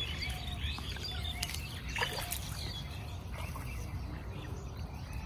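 Small birds chirping over and over, quick short chirps with a few brief whistled notes, over a low steady background rumble.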